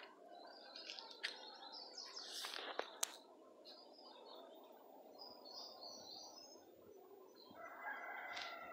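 Faint birds chirping, with a couple of sharp clicks about a third of the way in.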